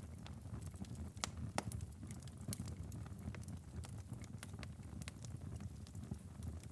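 Wood fire in a fireplace crackling: irregular sharp pops and snaps over a low steady rumble, with a couple of louder pops about a second and a half in.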